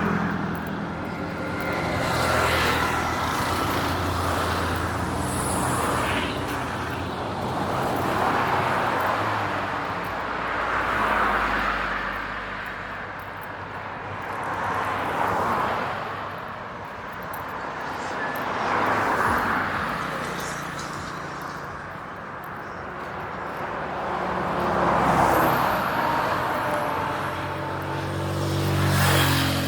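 Road traffic: cars pass one after another every few seconds, each swelling and fading as tyre and engine noise, with a louder vehicle's engine passing near the end.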